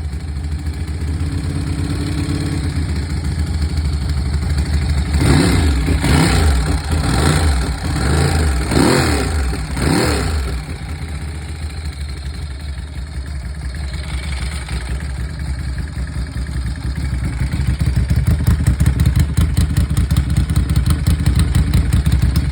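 Ducati 851 V-twin engine, newly rebuilt with race cams and an 888 kit, running just after its first start. It is blipped about five times in quick succession early in the middle, settles to idle, then runs louder with a strong pulsing beat near the end.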